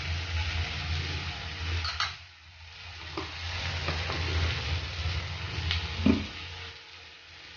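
Onion, tomato, bean and capsicum sauce sizzling in a steel kadhai over a gas flame, stirred at first with a steel spatula scraping the pan. A few light metal clinks follow, the loudest about six seconds in, over a low hum that stops at about the same moment.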